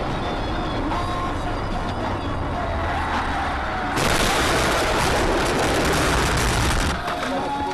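Road and engine noise of a moving vehicle, growing louder and harsher about four seconds in for some three seconds before easing back.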